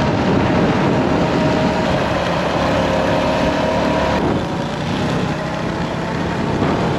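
Motorcycle engine running under way, with wind and road noise over the helmet microphone.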